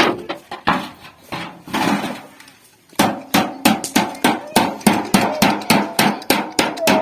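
Hand hammer striking sheet metal from an old refrigerator as it is shaped into a pot. A few scattered blows come first; then, about three seconds in, a rapid, even run of about four strikes a second begins.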